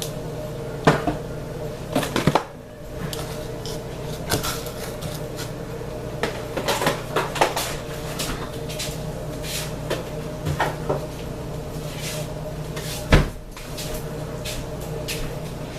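Kitchen handling sounds: a run of clicks and knocks from cupboard doors and containers being opened, closed and moved, with a sharper knock about 13 seconds in, over a steady hum.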